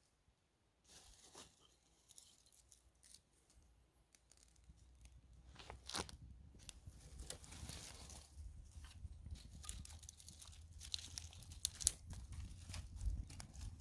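Campfire of carving shavings and kindling being lit: scattered crackles and snaps that grow denser from about halfway, over a low rumble that builds as it catches.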